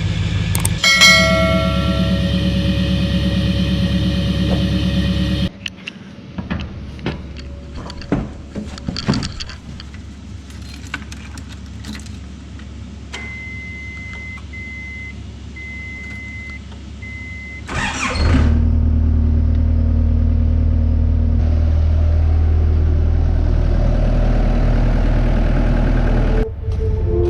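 Skid steer's engine running steadily, then cutting off about five seconds in. A quieter stretch of clicks and knocks follows, with a high beeping tone for a few seconds, before an engine starts again at about 18 seconds and runs steadily to the end.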